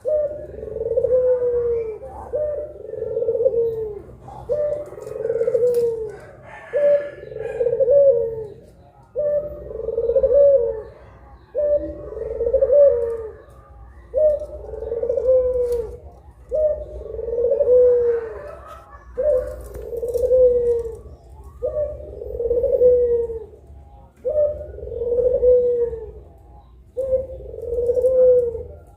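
Puter pelung doves cooing: long, drawn-out coos repeated back to back, about one every two seconds, over a faint low hum.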